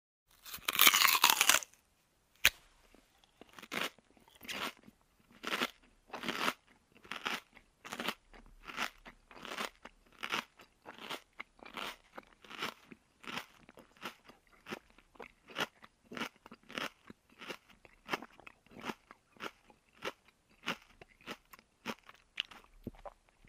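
A person biting into crunchy food with a loud crackling crunch, then chewing it with steady crunches, about one and a half a second.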